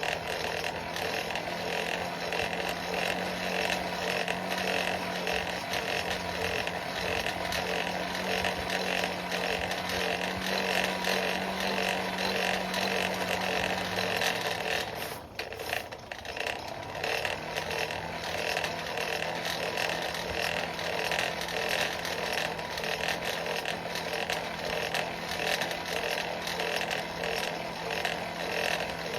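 Coal forge fire running under forced air while a chain link heats to welding heat: a steady blower hum with the crackle of burning coal. The hum drops away briefly about fifteen seconds in, then comes back a little lower.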